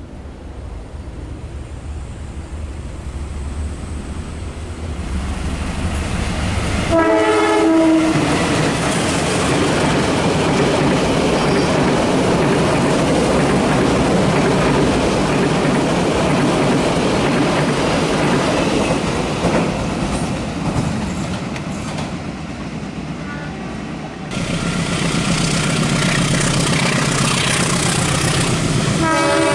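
A train approaches with a rising rumble, sounds its horn briefly about seven seconds in, then passes at speed with loud wheel and rail noise. The sound changes abruptly later on, and another horn blast begins near the end.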